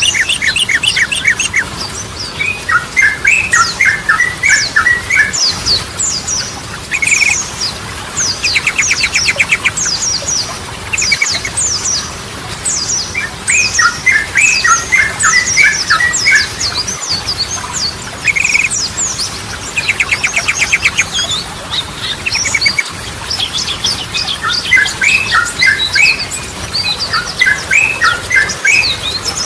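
Yellow-vented bulbul singing: bubbly chattering phrases and quick rattling trills, repeated over and over, with thin high chirps throughout.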